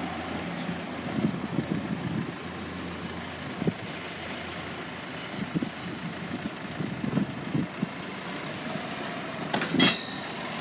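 A Class 142 Pacer diesel railbus running over the crossing, its engine humming while its wheels give irregular short knocks over the rail joints. A louder metallic clank with a brief ring comes near the end.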